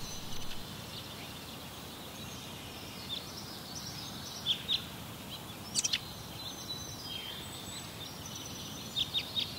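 Songbirds chirping faintly and sparsely over a steady outdoor background hiss, a few short high calls at a time.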